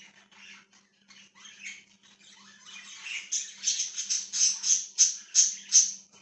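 Budgies chirping in quick short calls, louder from about halfway through, where a run of sharp chirps comes about three or four a second.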